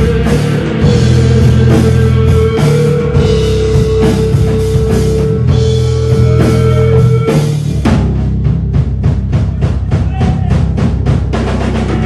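Rock band playing an instrumental passage: a guitar holds one long note over bass and drums. About eight seconds in, the held note drops out and the drums play a run of quick, even hits.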